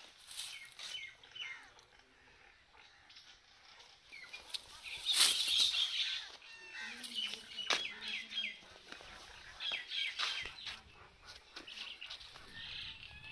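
Birds chirping, with many short, high chirps, and a louder burst of noise about five seconds in.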